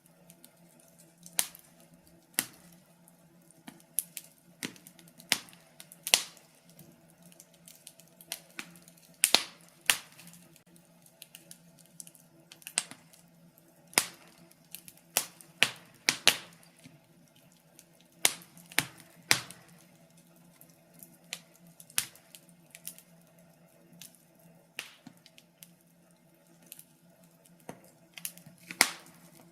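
Firewood crackling in a fireplace: irregular sharp pops and snaps, about one or two a second, some much louder than others, over a faint steady low hum.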